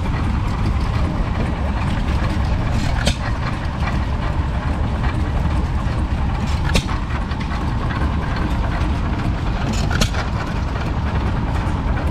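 Vintage stationary engine running steadily with a low rumble. A sharp click sounds about every three and a half seconds.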